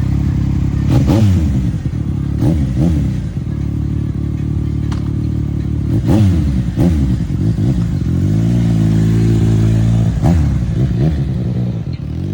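Motorcycle engines revving, the pitch repeatedly climbing and dropping every second or two, with a steadier held engine note for a stretch about two thirds of the way in.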